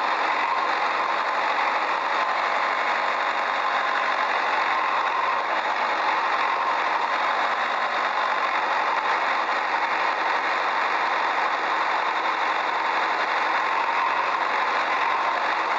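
A motor running steadily and evenly, with no change in speed, mostly in the middle and upper range with little bass.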